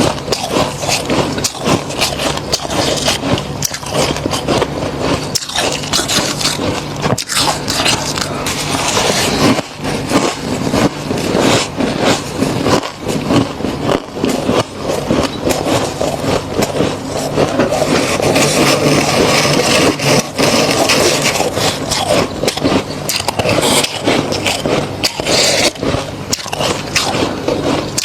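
Thick freezer frost being scraped, a continuous crunchy scraping made of many rapid, uneven strokes, with a faint low steady hum underneath.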